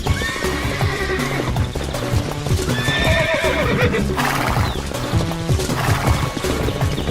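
Hoofbeats of running brumbies (Australian feral horses) and several horse whinnies, over background music.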